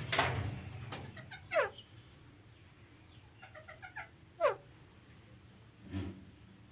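Pet parrot giving two meow-like calls that fall in pitch, about a second and a half in and again about four and a half seconds in, with a quick run of short chattering notes between them.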